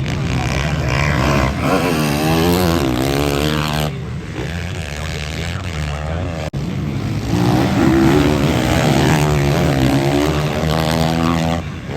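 Motocross bikes racing on track, engines revving hard, with the pitch rising and falling over and over as the riders work the throttle and shift.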